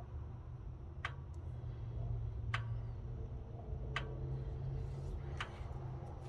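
Slow, regular ticking, four sharp ticks about a second and a half apart, over a steady low hum, from a machine that ran for a minute and a half and then died.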